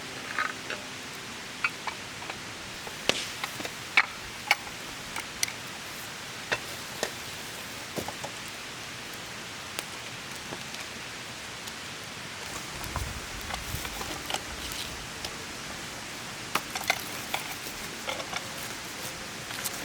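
Steady wet hiss with scattered sharp drops landing at irregular intervals, like water dripping after rain. A low rumble comes in for a couple of seconds around the middle.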